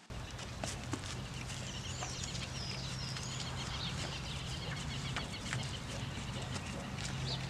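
Chickens clucking, with a few high calls about two to three and a half seconds in, over a steady low hum.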